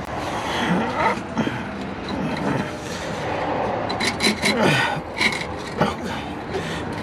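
Metal exhaust parts scraping and rasping against each other as they are worked into place by hand, with squeaks and a quick run of sharp metallic clinks around the middle.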